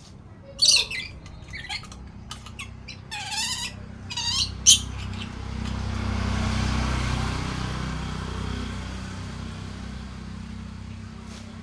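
Lory (nuri parrot) giving a run of shrill, wavering squawks over the first five seconds. Then a low rushing noise swells and slowly fades.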